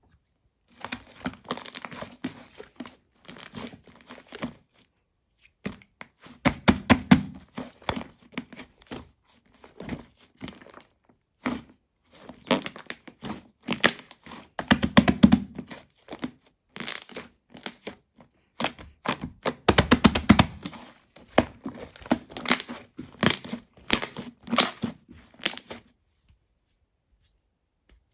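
Shaving-foam slime being squished and stretched by hand, crackling and popping in repeated bursts. The sound stops about two seconds before the end.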